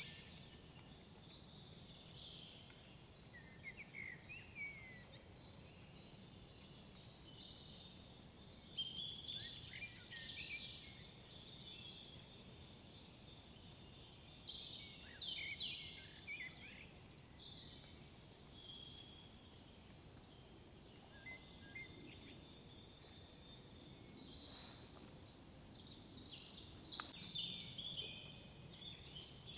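Several songbirds singing in woodland, with short chirps and whistled phrases throughout and one bird repeating a high trilled phrase about every seven or eight seconds. A faint low background hum lies beneath.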